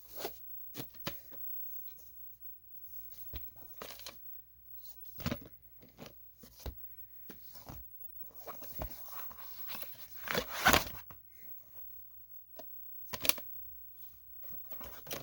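Irregular rustling and crinkling with scattered sharp clicks, the loudest burst of rustling about ten seconds in.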